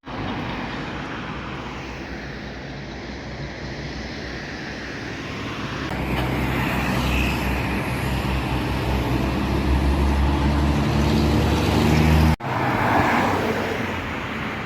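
Road traffic with vehicle engines running close by, getting louder about six seconds in; the sound breaks off abruptly about twelve seconds in and picks up again.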